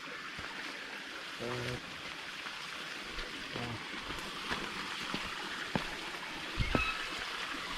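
Rustling of leaves and undergrowth, with a few light snaps and knocks scattered through it and a low thud near the end.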